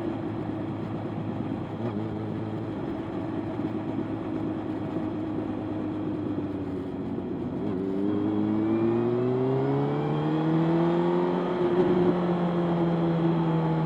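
Motorcycle engine running at a steady speed, then accelerating: its pitch rises for a few seconds from about two-thirds of the way in, and it holds at the higher revs near the end.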